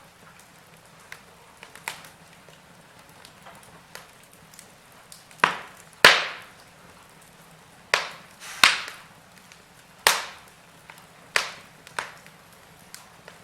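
Wood fire burning in a fireplace: a faint steady crackle, then a run of about seven sharp pops from about five seconds in, the loudest about six seconds in, each dying away quickly.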